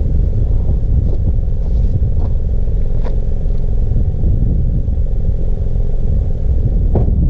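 Mazda CX-5's engine idling steadily: a continuous low rumble with a steady hum, no revving.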